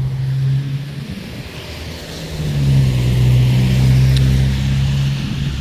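A motor running with a steady low hum, louder from about halfway in.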